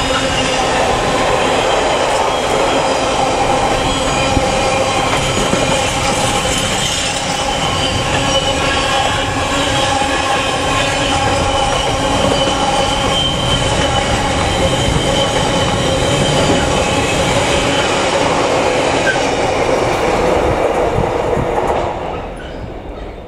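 Freight train wagons rolling past, their wheels squealing steadily with several held tones over a clattering rumble. The sound cuts away near the end as the train clears.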